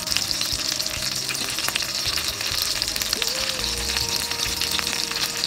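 Breaded chicken breasts shallow-frying in hot oil in a cast-iron skillet: a steady, dense sizzle full of fine crackles and pops.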